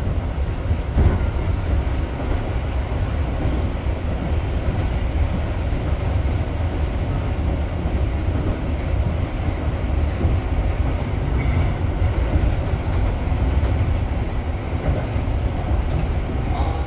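Tobu 8000-series electric train (set 8158F) running along the line: a steady low rumble of wheels on rails, with faint clicks over the track.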